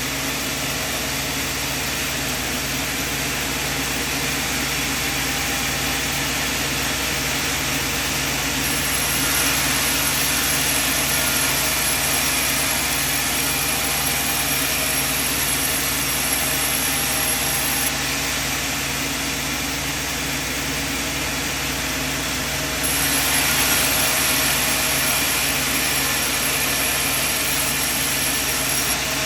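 Sawmill machine running steadily. It grows a little louder, with a high whine, for about nine seconds in the middle and again for the last six seconds.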